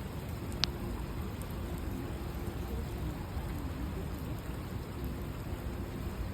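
Steady rain falling and pattering on surfaces, with a single sharp tap about half a second in.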